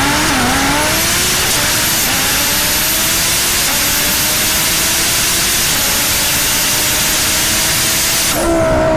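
Loud rushing wind and road noise over a car engine whose pitch climbs steadily as the car accelerates hard at speed. Near the end the rush cuts off suddenly and the engine is heard more plainly.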